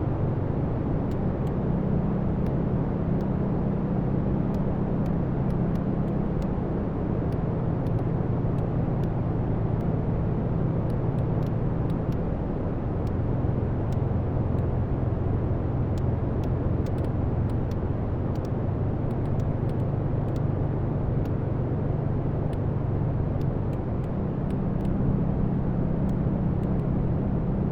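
Wood fire burning in a fireplace: a steady low rumble of the flames with many small, sharp crackles and pops from the burning logs scattered throughout.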